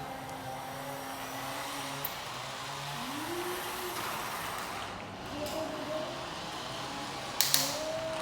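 Excavator engine running steadily, its pitch rising now and then as it works, with a few sharp knocks near the end.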